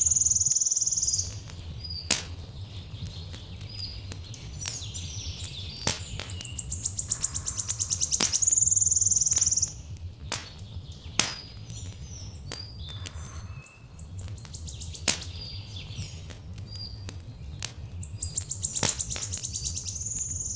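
A bird's high, rapid trill, sung in bursts of a few seconds that repeat, over the scattered crackles and pops of a wood fire and a low steady rumble.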